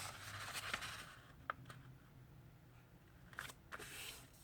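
A sheet of paper being handled and folded in half, rustling with a few short sharp crackles.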